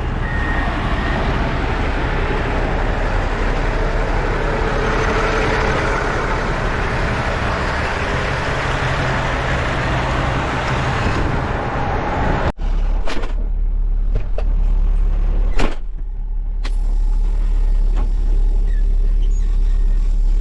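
Dump truck running, its reversing alarm beeping briefly at the start, then dense engine and road noise. About two-thirds of the way through the sound changes abruptly to a steady low engine drone.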